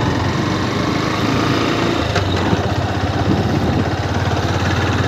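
Motorcycle engine running steadily at low speed while being ridden, its firing pulses heard as an even low throb.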